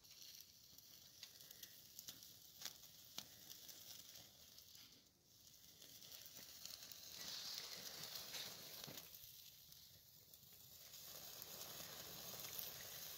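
Faint sizzling of pork fat roasting on a stick over a wood campfire, with a few sharp crackles from the burning wood.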